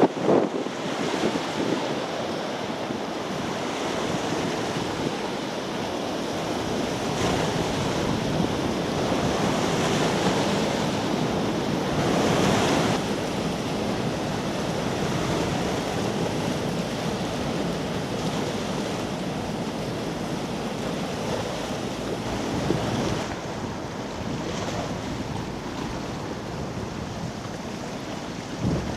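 Steady rushing of wind buffeting the microphone, with water washing. It swells louder for a moment about twelve seconds in.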